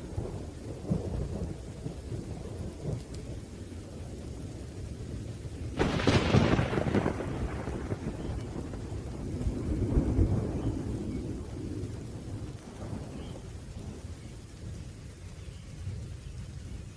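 Thunderstorm: steady rain with continuous low rolling thunder, a sharp, loud thunderclap about six seconds in that rumbles away over a couple of seconds, and another swell of rumbling a few seconds later.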